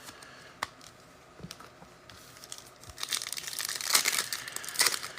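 Trading card pack wrapper being torn open and crinkled. A few light clicks, then loud crinkling starts about three seconds in.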